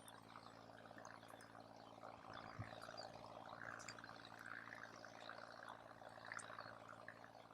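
Wood campfire burning faintly, a soft steady crackle scattered with small sharp pops.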